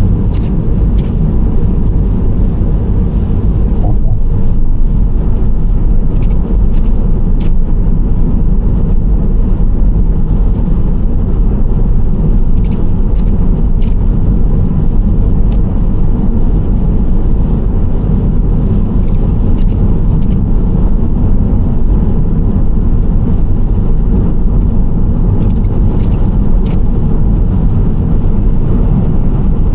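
A Nissan Serena C25 minivan driving at a steady pace: constant deep road and engine noise, with a few faint sharp ticks scattered through it.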